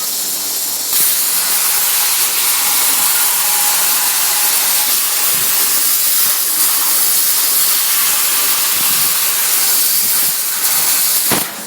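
Mini CNC plasma cutter cutting 0.5 mm stainless steel sheet: a loud, steady hiss that grows stronger about a second in and cuts off suddenly with a short click near the end.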